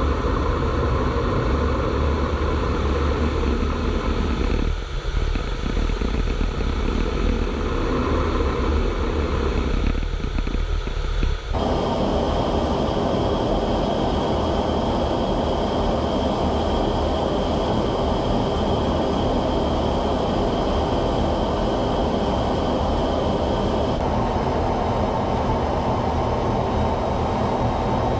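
Loud, steady engine rumble with a low hum. The sound changes abruptly about eleven seconds in, where a steady high whine joins it, and shifts again near the end.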